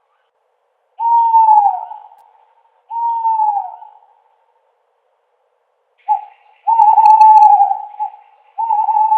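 An owl hooting. Two hoots each drop in pitch at the end, then after a pause of about two seconds comes a short hoot followed by two longer, steadier ones.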